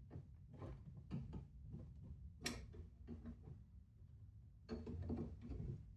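Scattered light metal clicks and taps of channel-lock pliers working the nuts of the sink's water supply lines, with a sharper click about two and a half seconds in and a run of clicks near the end.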